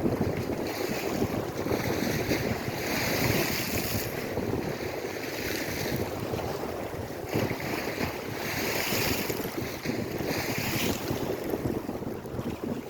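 Lake Erie waves breaking and washing in several hissing surges, one every couple of seconds, over a steady rumble of wind on the microphone.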